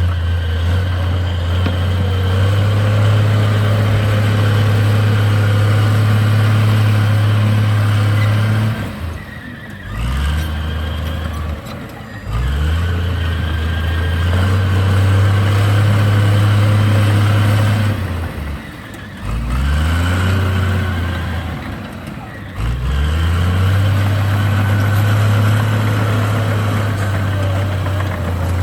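Komatsu D58 bulldozer's diesel engine working in cycles: it revs up and holds a steady high pitch for several seconds under load, then drops back and revs again. There are three long holds with two short revs in between.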